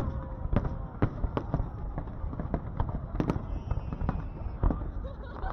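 Fireworks display going off: many sharp bangs at irregular intervals over a continuous low rumble of explosions.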